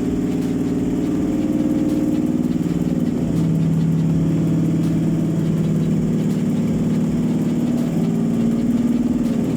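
Toyota 4GR-FSE V6 engine running at idle on a test stand during its first start, a steady note that shifts pitch about three seconds in.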